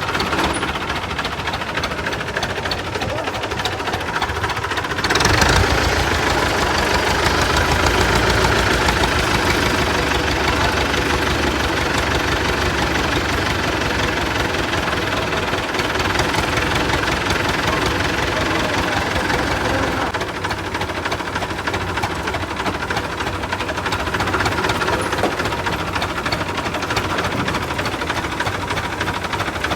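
Forklift engine running steadily, getting louder for a few seconds from about five seconds in, then settling back.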